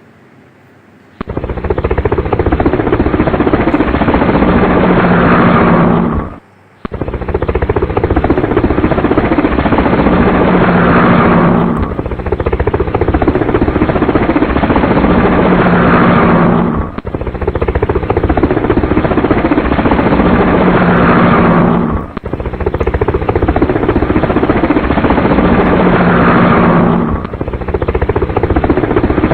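Helicopter rotor sound effect, a loud chopping drone that starts about a second in and repeats as an identical loop roughly every five seconds, with brief dips between repeats.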